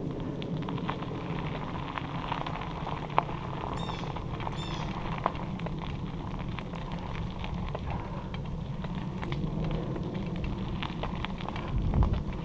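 Bicycle rolling along a dirt trail: a steady rumble of tyres and wind on the microphone, with scattered crackling clicks from gravel and twigs under the wheels and a heavier bump near the end. Two short high chirps come about four seconds in.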